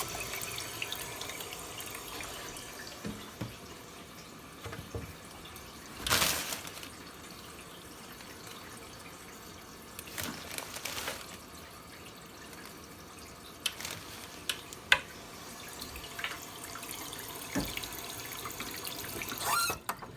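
Steady rush of running water, with scattered knocks and clicks over it. It stops abruptly near the end.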